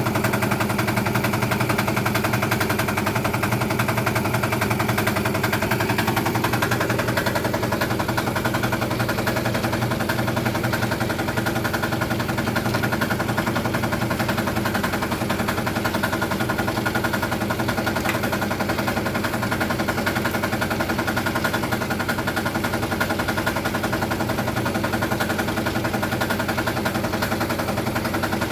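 A small motor running steadily with a rapid, even pulsing, its pitch shifting slightly about six seconds in.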